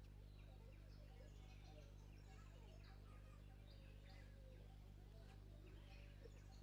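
Near silence: a steady low background hum with faint, scattered bird chirps.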